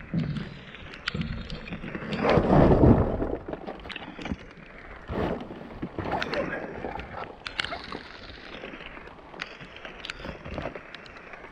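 Rummaging through scrap in a dumpster: irregular knocks, clicks and clatter, with a louder rustling surge about two seconds in, heard muffled and watery through a waterlogged GoPro microphone.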